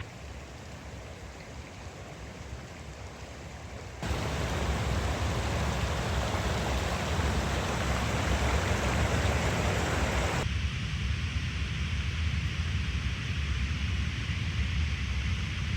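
Rushing water of a mountain stream, an even hiss that gets abruptly louder about four seconds in and drops back again about ten seconds in, over a steady low rumble.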